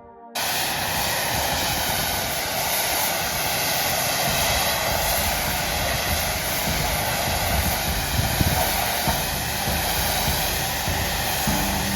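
A loud, steady rushing hiss that cuts in abruptly just after the start, with a low steady hum joining near the end.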